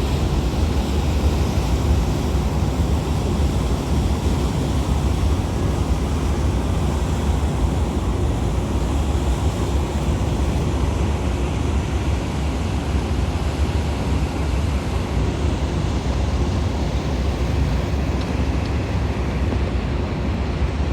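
Steady low rumble of a large car ferry's engines, mixed with wind on the microphone and water noise.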